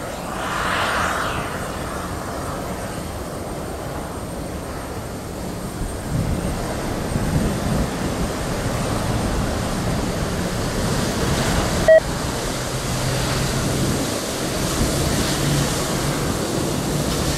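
Rolls-Royce Trent XWB engines of an Airbus A350-900 jet airliner landing: a steady rushing jet noise that swells about six seconds in, with a low engine hum beneath. A single sharp click comes near the end.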